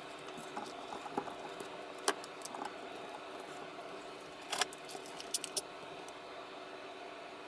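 Light metallic clicks and taps of small parts and tools being handled at a workbench, sharper clicks about two seconds in and again around five seconds in, over a steady faint hum.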